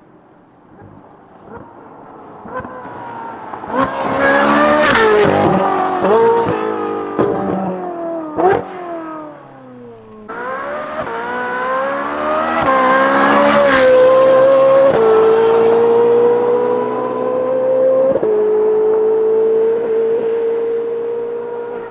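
Ferrari 458's naturally aspirated V8 through a titanium valved exhaust with free-flow front bypass pipes, accelerating hard. The revs climb through a run of quick upshifts and fall away as it eases off. About ten seconds in they jump back up and climb again, then hold fairly steady with two more shifts.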